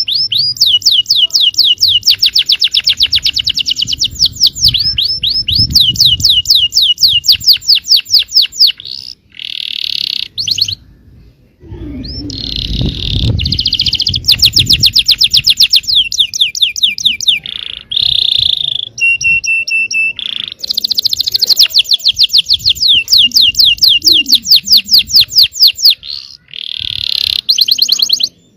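Yellow domestic canary singing in long, fast trills of rapidly repeated high notes, broken by short pauses. A brief steady whistle comes a little before the 20-second mark.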